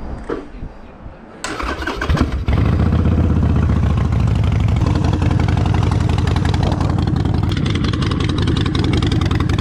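Harley-Davidson Forty-Eight's air-cooled V-twin cranked on the electric starter and catching about two and a half seconds in, then idling steadily.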